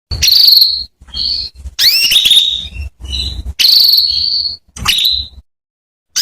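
Female domestic canary calling: about six short phrases, each a quick upward sweep into a held high note or trill, with short gaps between them.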